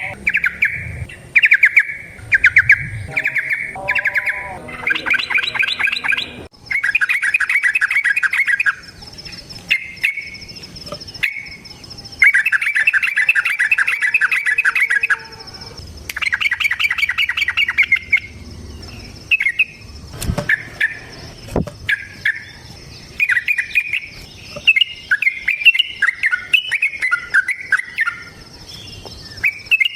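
Yellow-vented bulbul (trucukan) singing in bursts of quick, bubbling, chattering phrases, some short and one running about three seconds. This is the long rapid 'ropel' song. A faint steady high tone sits behind it from a few seconds in.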